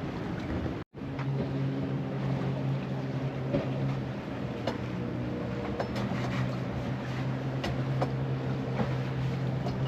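Sailing yacht under way: a steady low hum over rushing water and wind noise, with a few light clicks. There is a brief dropout about a second in.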